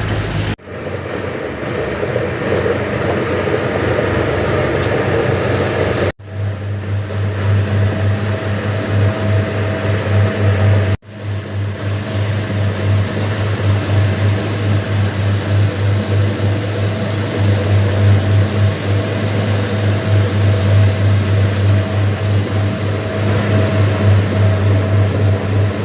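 A fishing boat's engine running steadily with a deep hum while underway, with wash and wind noise over it. The sound drops out abruptly three times, at about half a second, six and eleven seconds in.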